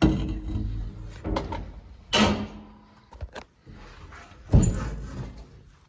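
Knocks and clunks from parts and the door of a pressure-pot blast cabinet being handled: four sharp strikes with short ringing tails, over the low steady hum of the cabinet's fan.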